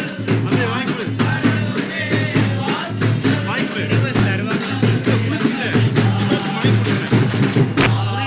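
Christmas carol music: a group singing over a steady percussion beat, with a rattling shaker.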